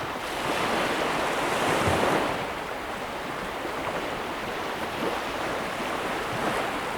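Ocean surf: a wave swells and washes in, loudest about two seconds in, then eases into a steady rushing wash.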